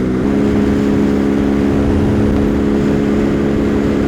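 Husqvarna Svartpilen 401's single-cylinder engine running at steady cruising speed, its note rising slightly a moment in and then holding, with wind rumbling over the rider's microphone.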